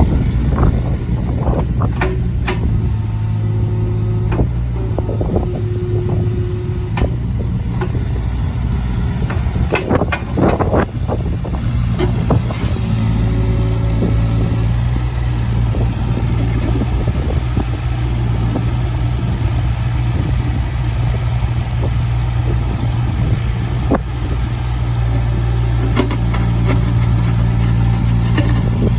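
Takeuchi TB016 mini excavator's diesel engine running steadily, with a higher steady tone coming and going over it and a few sharp knocks and clanks, loudest around ten seconds in.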